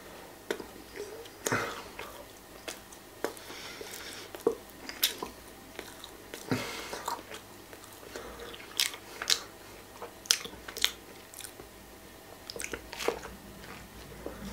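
A person biting into and chewing a grilled ham-and-cheese sandwich, with short crunches and mouth clicks coming at irregular intervals.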